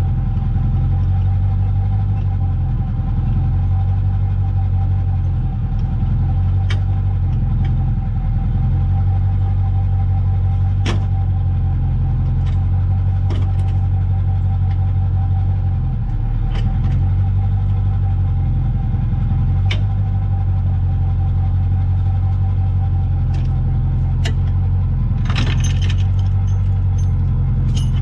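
Vehicle engine running steadily with a low, even drone, with a few scattered light clicks and a short rattle near the end.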